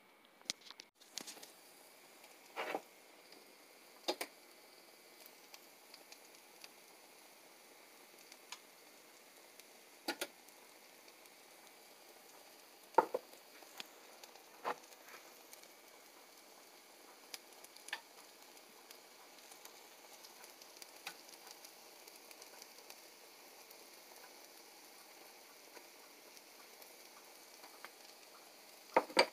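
Slices of puffball mushroom sizzling steadily as they fry in a skillet, with a few sharp clicks and pops.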